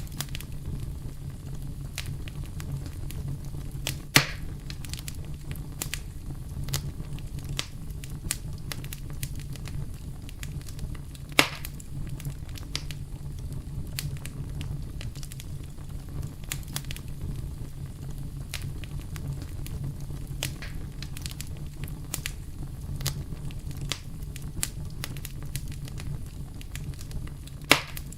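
Campfire burning: a steady low rumble of flames under constant small crackles and pops of burning wood, with three sharper, louder snaps about 4 s in, about 11 s in and near the end.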